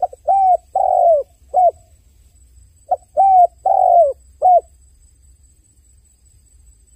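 A dove cooing: two phrases about three seconds apart, each of four notes, a short one first and the third note the longest.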